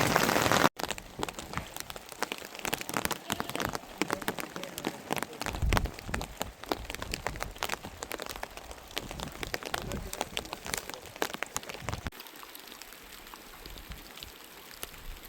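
Rain falling, with individual drops ticking and pattering over a soft hiss. Under a second in, a heavy, dense downpour cuts off abruptly to the lighter scattered drops, with one duller thump near the middle. The pattering thins out further near the end.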